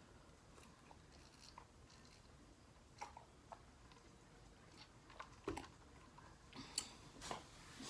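Faint close-up chewing of food, with a few short soft mouth clicks between long stretches of near silence.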